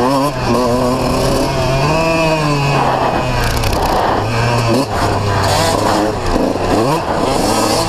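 A 125cc two-stroke motocross bike's engine ridden hard on a dirt track, heard from on board. The revs rise and fall with the throttle, with a quick drop and climb twice in the second half.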